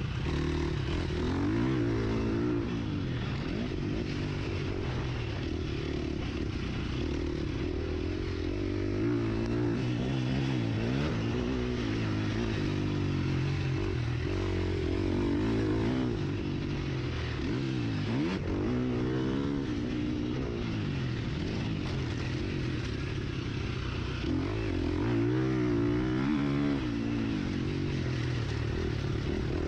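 Husqvarna FC 350 four-stroke motocross bike's engine being ridden hard, its pitch rising and falling over and over as the throttle opens and shuts and the gears change.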